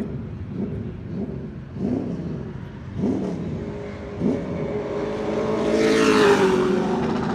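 Pro Truck race truck engine at full throttle on the track, its pitch rising in several sweeps about a second apart, then passing loud and close about six seconds in and dropping in pitch as it goes by.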